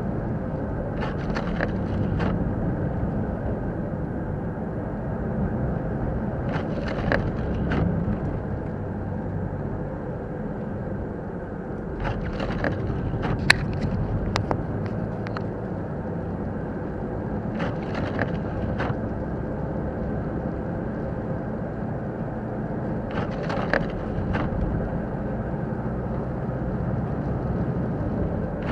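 A car driving on a snowy road, heard from inside the cabin by a dashcam: a steady low rumble of engine and tyres, with a short burst of higher rustling and clicks about every five to six seconds.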